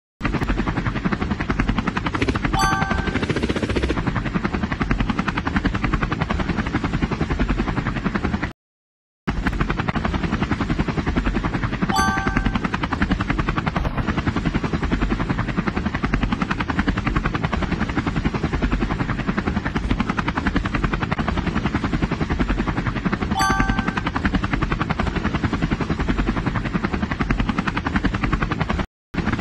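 Helicopter sound effect: rotor blades chopping fast and steadily, dropping out briefly once about nine seconds in and again near the end. A short chiming tone sounds three times, about ten seconds apart.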